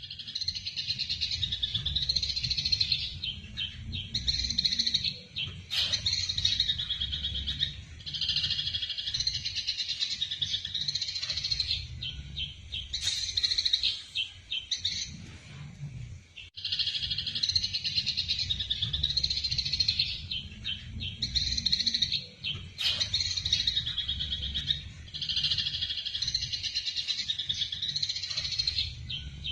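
Eurasian tree sparrows chirping in rapid, excited bursts: the fast chatter of sparrows fighting. A low steady hum runs underneath, and after a brief gap about halfway through the same run of chirping starts over.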